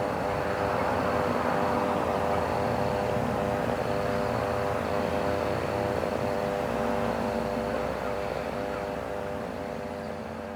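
Aircraft engine drone: a steady hum of several even tones that fades away over the last couple of seconds as the aircraft passes.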